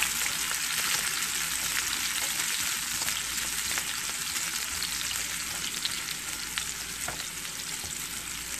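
Chopped onion and garlic sizzling in hot oil in a frying pan, stirred and pushed around with a spatula: a steady crackling hiss that eases a little near the end.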